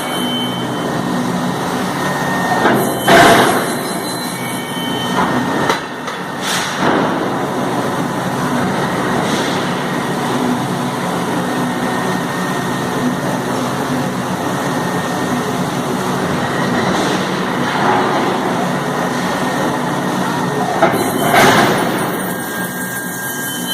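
Forging shop machinery running steadily, with a few louder knocks or bangs standing out: one about three seconds in, one a few seconds later, and one near the end.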